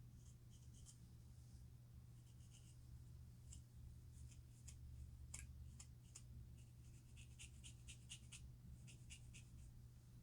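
Faint scratching on a scalp to loosen dandruff: short, dry, scratchy strokes, scattered at first and then a quicker run of strokes in the second half, over a steady low hum.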